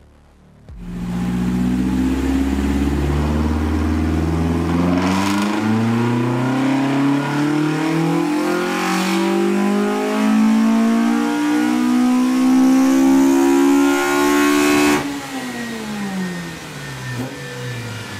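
Toyota AE86's smallport 4A-GE inline-four with individual throttle bodies, pulling at full throttle on a chassis dyno: the revs climb steadily for about fourteen seconds, then the throttle is shut and the revs fall away. It is a power run testing added ignition timing.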